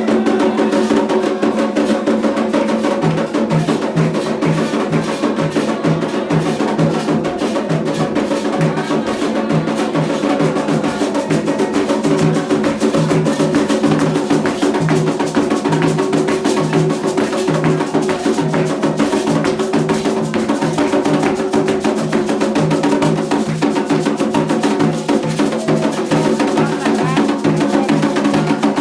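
Candomblé ritual percussion: drums played in a dense, fast, steady rhythm that runs without a break.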